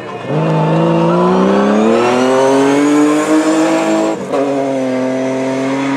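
Rally car engine accelerating hard, its pitch climbing for about four seconds, then a quick upshift and the engine pulling on at a steady high note.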